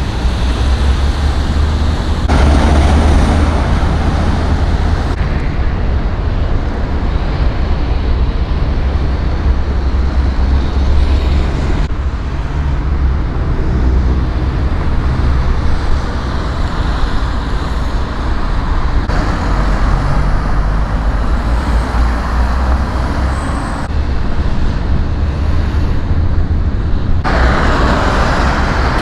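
Road traffic and vehicle engine noise with a heavy low rumble, changing abruptly at several cuts between short clips.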